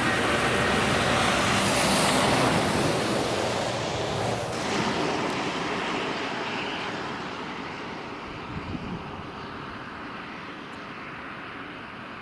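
2TE116 diesel locomotive running while standing before departure: a steady rushing drone that fades gradually.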